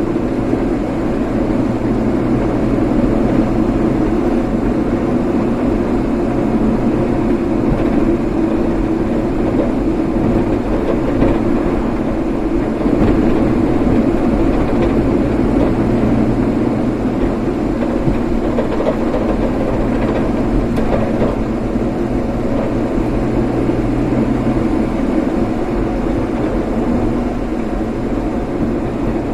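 Steady hum and rumble of a vehicle on the move, tyre and engine noise holding an even level without breaks.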